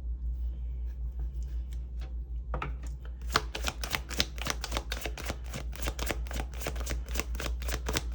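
Tarot cards being shuffled: a quick run of sharp card clicks begins about two and a half seconds in and keeps going, over a steady low hum.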